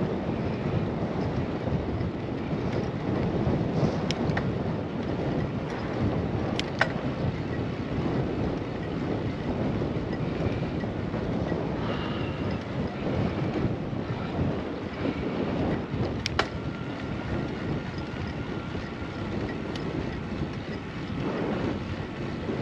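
Wind rushing over a bicycle-mounted camera microphone together with tyre and road noise while riding, a steady rumbling hiss, with a few sharp clicks from the bike.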